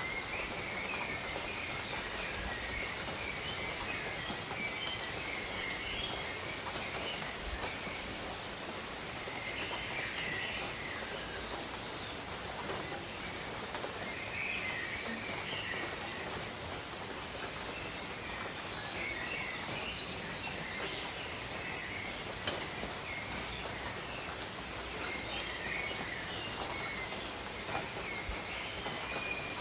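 Steady gentle rain pattering on leaves, with scattered individual drops, while small birds chirp in short twittering phrases every few seconds.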